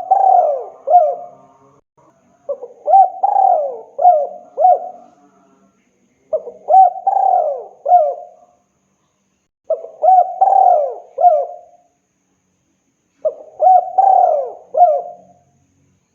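Spotted dove (tekukur) cooing: a phrase of several coo notes repeated about every three and a half seconds, five times. It is the call a male gives to a female.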